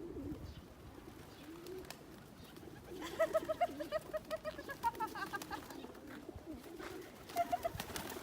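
Pigeons cooing, a low wavering murmur that runs throughout. About three seconds in, a louder run of short, evenly repeated higher notes lasts about two seconds, and a brief burst of them comes again near the end.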